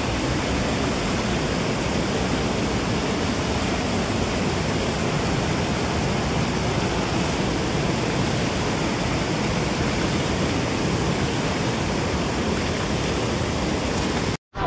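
Waterfall: a loud, steady rush of falling water with no breaks. It cuts out abruptly for a moment near the end.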